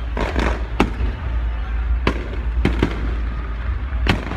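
Fireworks going off: about six sharp bangs at irregular intervals, some trailed by a brief crackle.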